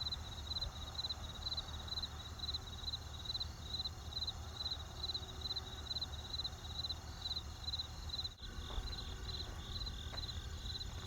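Crickets chirping in a steady, even pulse of about two to three chirps a second, over a low steady rumble and the faint crackle of a campfire with a single pop near the end. The sound dips briefly about eight seconds in.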